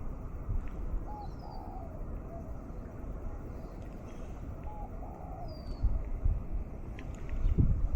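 Wild birds calling in mangroves: a short repeated call phrase twice, with thin high chirps. This plays over a steady low rumble of breeze on the microphone, and a low thump near the end is the loudest moment.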